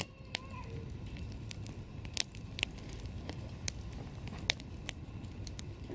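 Wood campfire crackling: sharp, irregular pops and snaps over a steady low rumble, with the loudest snaps about two and four and a half seconds in.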